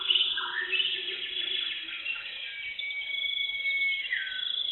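Forest birds calling over a dense, high-pitched insect-like shimmer, with one held whistled note in the second half that ends in a falling call.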